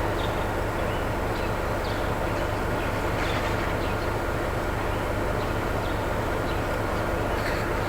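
A truck's engine idling: a steady low rumble that does not change.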